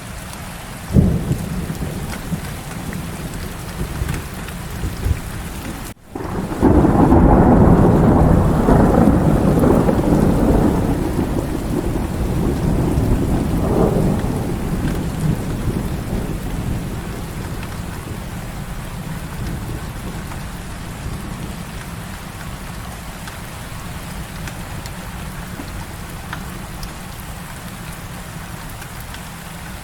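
Heavy rain falling steadily, with a sharp crack of thunder about a second in. About six seconds in, after a momentary gap, a long rolling thunder rumble starts loud, swells again a few seconds later and slowly fades away under the rain.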